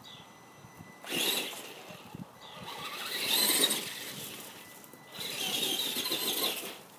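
Traxxas radio-controlled monster truck driving through mulch in three bursts of throttle, its motor whining and tyres churning between short pauses.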